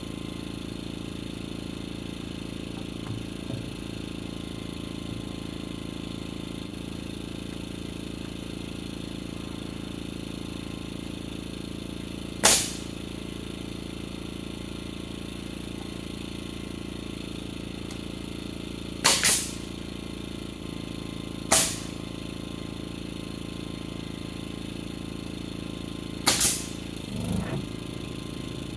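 Nails being driven into framing lumber as a rafter is fastened: six sharp strikes, one at a time and in two quick pairs, spread over the second half, over a steady mechanical hum.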